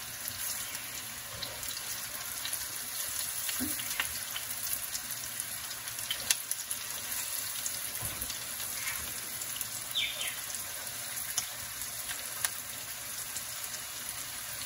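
Breaded cauliflower pieces frying in shallow olive oil in a frying pan: a steady sizzle with scattered sharp crackles.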